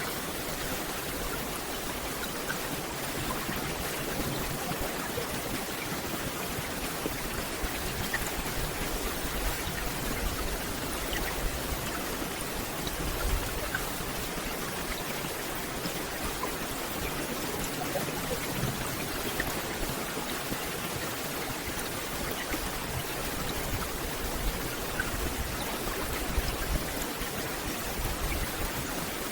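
Steady rain falling on forest leaves: an even hiss with scattered ticks of single drops.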